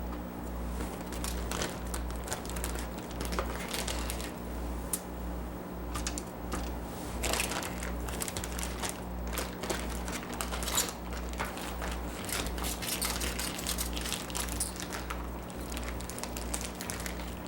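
Plastic marinade bag crinkling and rustling, with irregular light clicks of chopsticks, as marinated chicken pieces are lifted out and swirled in the sauce. A steady low hum runs underneath.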